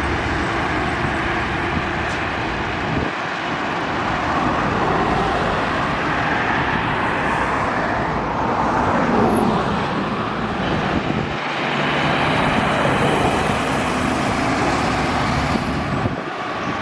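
Steady highway traffic: trucks and other vehicles passing close by with engine and tyre noise. About halfway through, one vehicle passes with a falling pitch.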